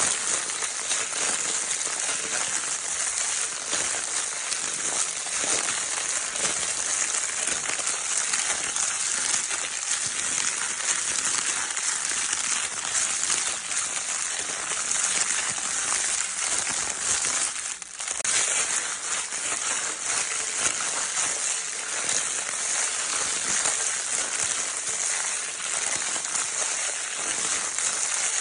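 Crinkle paper of a baby's crinkle toy being crinkled continuously: a dense, steady rustle of fine crackles, with one brief lull about eighteen seconds in.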